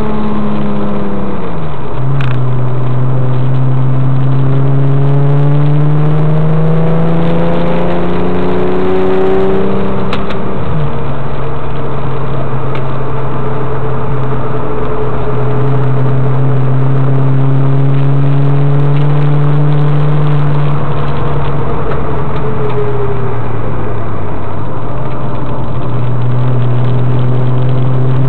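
Twin-turbocharged flat-six of a Gemballa GT600 Evo, a tuned Porsche 996 Turbo, heard from inside the cabin while being driven hard on track. The engine note falls about two seconds in and climbs steadily under acceleration. It drops sharply with a gear change about eleven seconds in, then holds, dips near the end and rises again.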